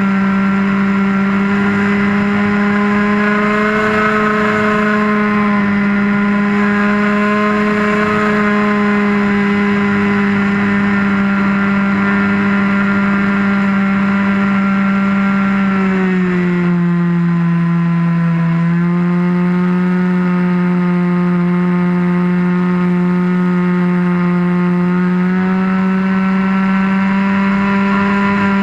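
RC airplane's engine running steadily in flight, heard from a camera on the wing. About sixteen seconds in, the pitch drops as the throttle is eased back, holds lower for about nine seconds, then rises back to its earlier steady pitch.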